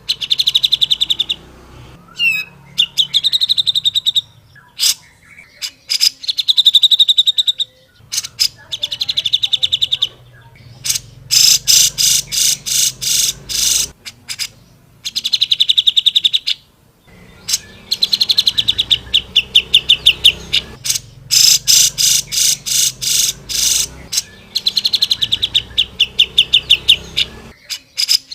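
Cucak jenggot bulbul singing energetically: loud, rapid, rattling chatter delivered in repeated bursts of one to two seconds with short pauses between them.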